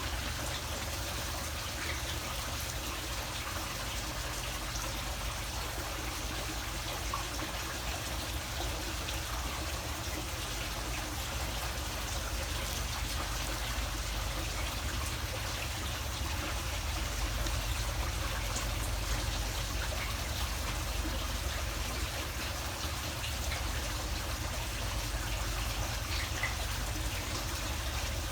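Steady trickle of running water with a low rumble underneath.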